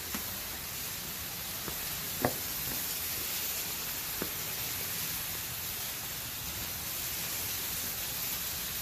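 Steady hiss of water falling from a waterfall, with a couple of brief sharp plinks of dripping water about two and four seconds in.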